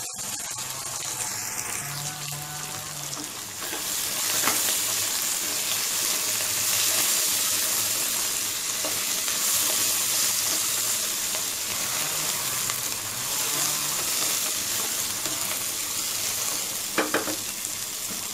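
Onions, green peas, mint and coriander sizzling in ghee in an aluminium pressure cooker while being stirred, the sizzle growing louder a few seconds in. A couple of short knocks against the pan, one near the end.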